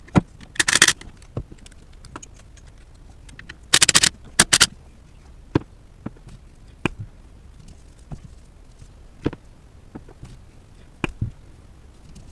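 Hand tools and metal parts clinking and scraping while working in a truck's engine bay: scattered clicks and knocks, with two short bursts of rattling clatter, one about half a second in and one about four seconds in.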